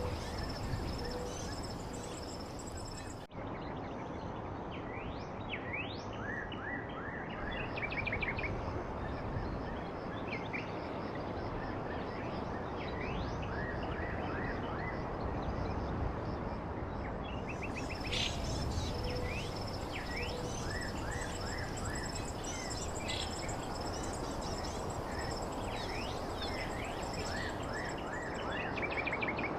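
Small songbirds chirping and twittering in short, quick calls, many birds overlapping, over a steady background hiss of outdoor ambience. The sound drops out briefly about three seconds in.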